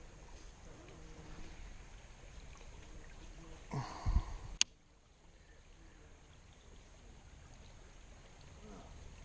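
Faint steady rush of river water, with a brief dull thump a little under four seconds in and a single sharp click just after it.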